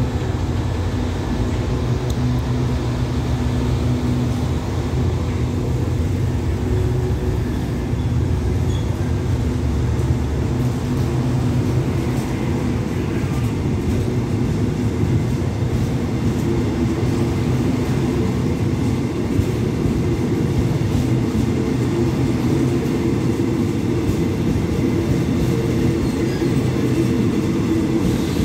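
Passenger coaches of an express train pulling out of the station and rolling past close by: a steady low rumble of wheels on rail, with a steady hum underneath.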